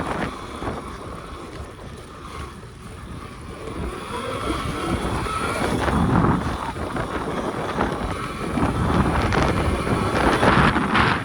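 Wind buffeting the microphone while riding an electric pit bike off-road, with the rumble of the ride swelling and easing and a faint high motor whine around the middle.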